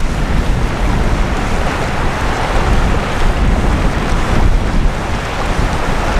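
Strong gusting wind buffeting the microphone with a constant low rumble, over a steady rushing noise of wind and river water.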